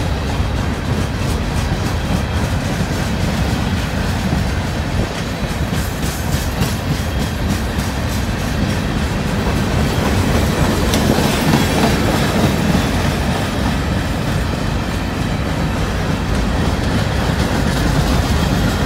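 Herzog ballast hopper cars of a freight ballast train rolling past on steel wheels: a steady rumble with wheel clicks over the rail joints.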